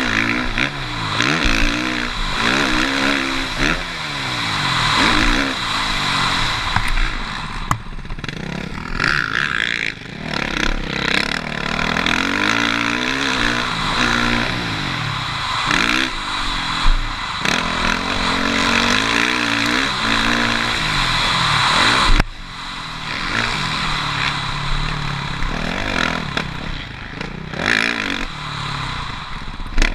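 Suzuki RM-Z450 single-cylinder four-stroke motocross bike being ridden hard around a track, its engine note repeatedly rising under throttle and falling off. About two-thirds of the way through, the engine note drops sharply for a moment.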